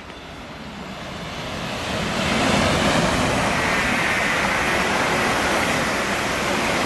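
London Northwestern electric multiple unit passing through at speed: a rushing wheel-and-air noise that swells over the first couple of seconds, then stays loud and steady as the carriages go by.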